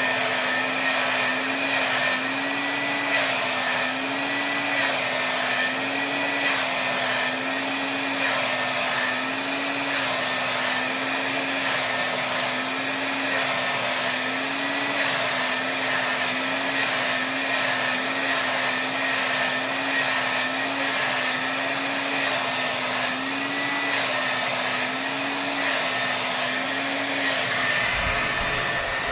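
Hair dryer blowing steadily at full power, a constant rush of air with a motor hum that wavers slightly up and down every second or two.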